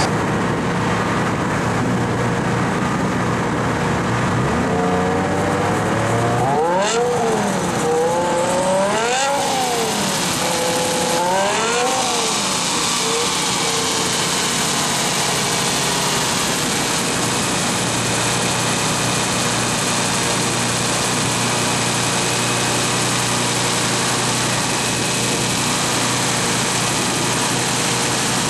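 E60 BMW M5's 5.0-litre V10 running on a chassis dyno, revved up and back down several times in the first half, then settling into steady running.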